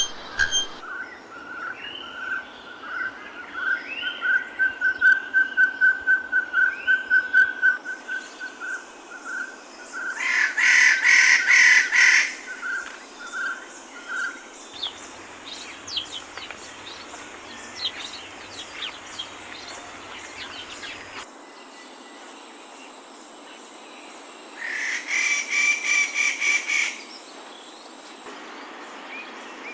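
Wild birds calling over a background hiss: a long run of evenly repeated whistled notes, about two or three a second, then scattered short chirps and two loud rasping trills about ten and twenty-five seconds in.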